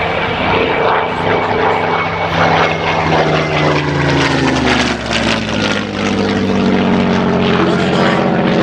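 Piston-engined Second World War fighter plane flying past with its propeller engine running loudly; the engine note drops in pitch about halfway through, then holds steady.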